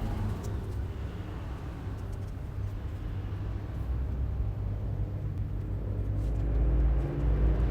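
A vehicle engine running at low revs, a low rumble that grows louder toward the end.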